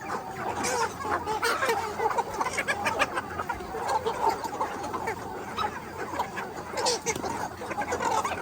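A flock of chickens clucking and chirping together, many birds at once.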